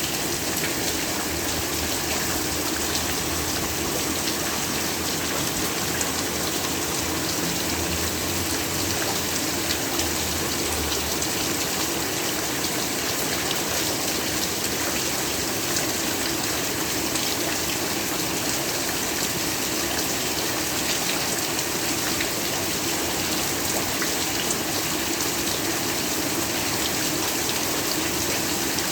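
Heavy rain falling steadily, a dense, even hiss of drops with fine individual drop ticks throughout.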